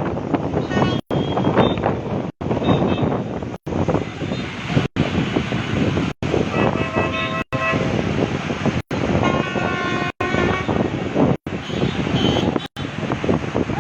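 Vehicle horns sounding twice, each a few-second held blast, over a loud, steady rushing noise of engines and traffic. The whole sound drops out briefly at regular intervals, about every second and a quarter.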